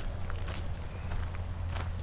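Footsteps of a person walking along a hiking trail, a few steps a second, over a steady low rumble.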